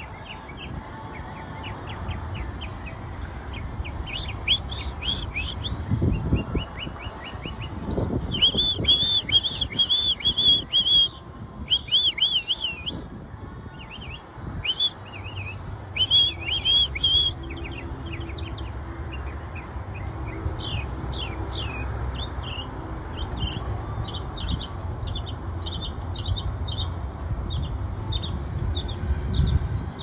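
A songbird singing a long, varied song of quick chirps and whistled notes, often in fast runs of the same note repeated, loudest around the middle. A low steady rumble lies underneath.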